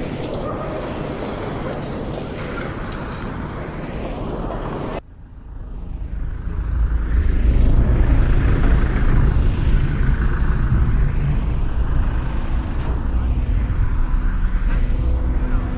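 An even rushing noise cuts off abruptly about five seconds in. Then the low rumble of an airliner's jet engines builds over a couple of seconds and runs steadily, with a slow swirling sweep in the high end from the 8D panning.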